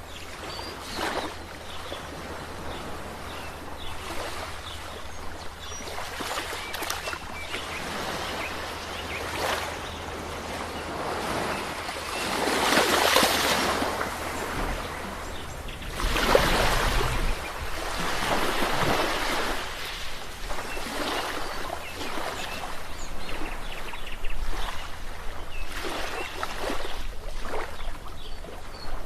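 Ocean waves breaking and washing on the shore: a steady rushing hiss that swells and ebbs every few seconds, with two bigger waves about halfway through.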